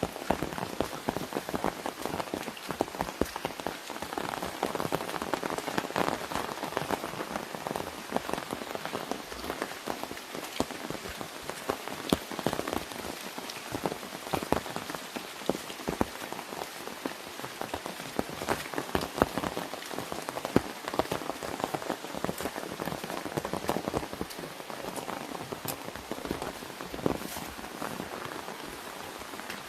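Rain pattering on an umbrella overhead: a steady dense patter of many separate drop hits on the canopy.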